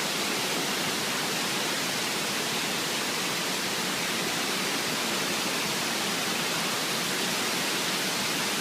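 Waterfall rushing: a steady, unbroken hiss of falling water, strongest in the high range with little low rumble.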